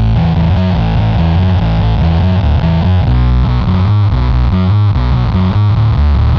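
Heavily fuzzed electric guitar riff through the AC Noises URLA square-wave CMOS fuzz, playing low, thick notes that change several times a second.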